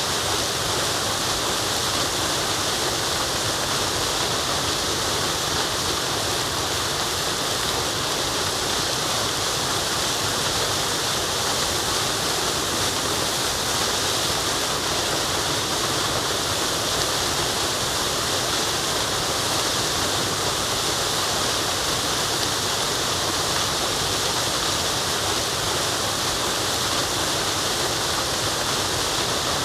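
Waterfall rushing in a steady, even roar of falling water, unchanging throughout and brightest in its hiss.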